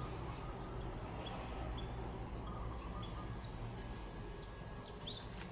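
Small birds giving a few short chirps over a steady low background hum, with a sharp click near the end.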